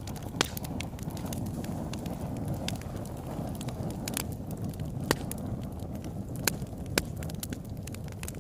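Wood fire burning in a fireplace: a steady low rumble of flames with frequent sharp crackles and pops, a few louder snaps scattered through.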